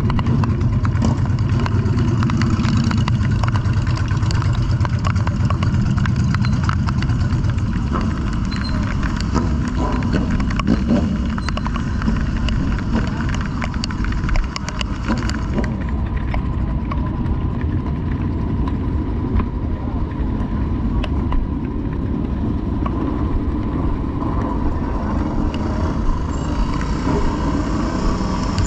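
Motorcycle running on the road, a steady engine and road-wind rumble that is heaviest for the first eight seconds or so, then eases.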